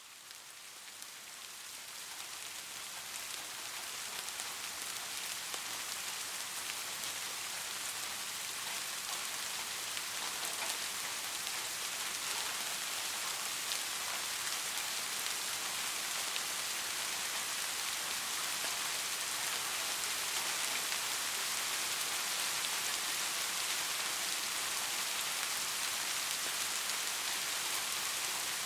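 Steady rain falling on a surface, a dense even hiss with scattered drop ticks, fading in over the first few seconds and then holding level.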